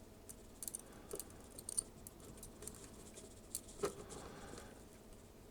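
Faint, scattered small ticks and taps from hand-soldering work on a circuit board, the soldering iron and solder touching the chip's pins; the clearest tick comes near four seconds in.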